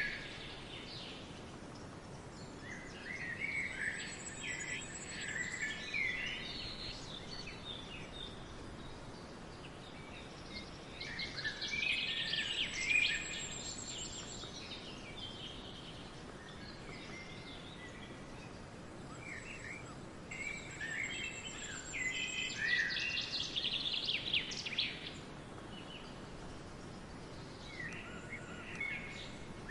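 Several songbirds singing in a forest, in phrases of chirps and warbles every several seconds, with a thin high whistle now and then over a steady background hiss.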